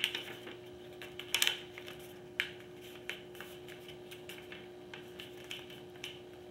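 Sheet of paper being folded and creased by hand: scattered crinkles and crackles, sharpest about a second and a half in and again near two and a half seconds, over a faint steady hum.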